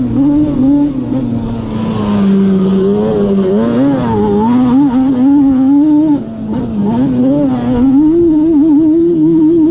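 Yamaha Banshee's twin-cylinder two-stroke engine, built out to 426 cc with a Cheetah big-bore kit, run hard while riding. Its pitch rises and falls with throttle and gear changes, with a short drop off the throttle about six seconds in.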